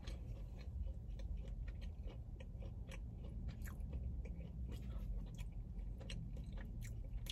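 Close-up chewing and mouth sounds from someone eating, with many light clicks of a plastic fork against a takeout cup, over a low steady hum.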